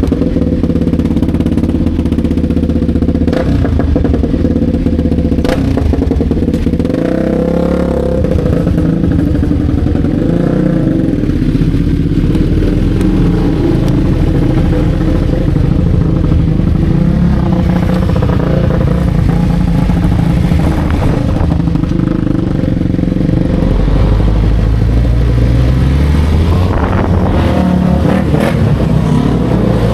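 Motorcycle engine running loud and close, its pitch sweeping up as it revs about seven seconds in and again near the end as it accelerates.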